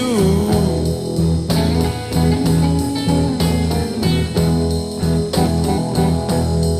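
Blues guitar playing an instrumental passage over a steady bass line, plucked notes falling in a regular beat; a sung line trails off at the very start.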